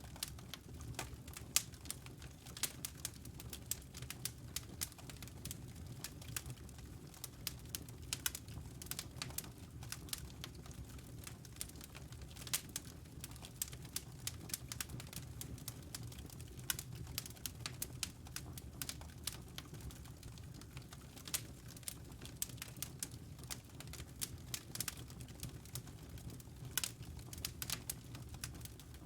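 Wood logs burning in a fireplace, with many sharp crackles and pops, several a second, over a steady low rumble of the flames.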